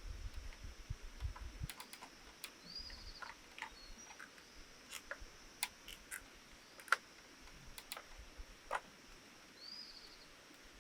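Scattered light clicks and knocks at an uneven pace, the sharpest about seven seconds in, over a steady high insect drone. A bird chirps twice, once early and once near the end.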